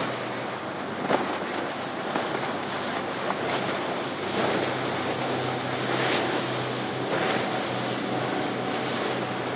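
Everglades 290 center console boat running past with a steady low engine drone under wind and wave noise, with several short splashes of water against the hull.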